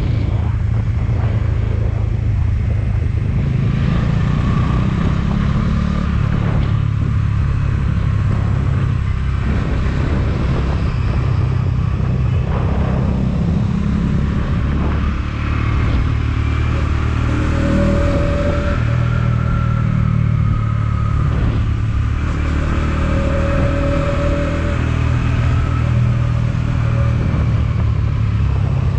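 Motorcycle engine running steadily while riding, with a continuous low drone.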